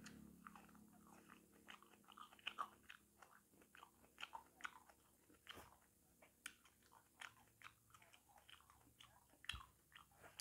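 Faint chewing of ripe honey jackfruit (nangka madu) flesh: a scatter of short, irregular mouth clicks and smacks.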